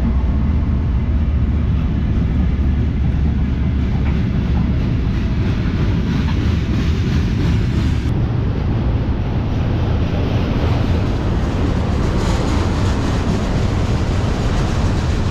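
Freight train rolling past: a steady deep rumble, with the rattle and clatter of freight cars' wheels on the rails coming up stronger after about eight seconds.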